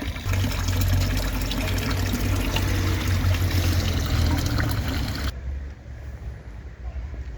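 A loud, steady rush of running or splashing water with a low rumble beneath it. It cuts off abruptly about five seconds in.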